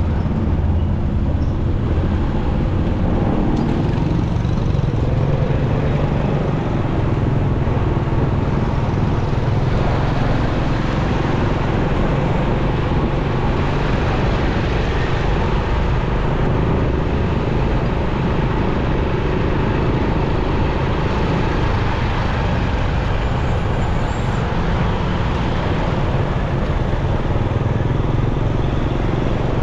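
Motorcycle engine running steadily while riding, with wind and road noise on the rider's microphone and surrounding traffic.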